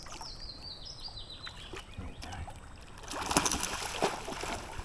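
A bird's trill stepping down in pitch over the first second and a half, then a burst of water splashing about three seconds in, a hooked barramundi thrashing at the surface beside the boat.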